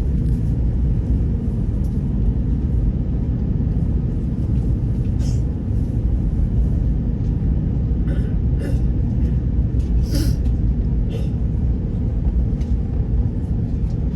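Airliner cabin noise during the climb after takeoff: a steady, loud, low rumble of engines and rushing air. A few brief hissy rustles come through about five, eight and ten seconds in.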